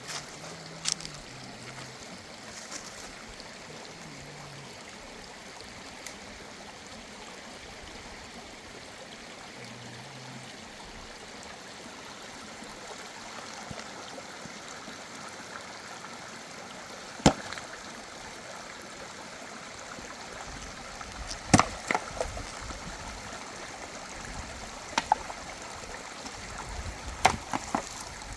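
Steady rush of a flowing stream. In the second half, a few sharp knocks or clicks sound over it.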